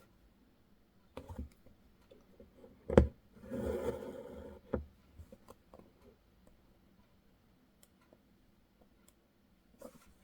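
Hand embroidery: a needle pushed through taut fabric with sharp taps, the loudest about three seconds in, then the thread drawn through with a short rasp. Smaller ticks and rustles of the fabric follow.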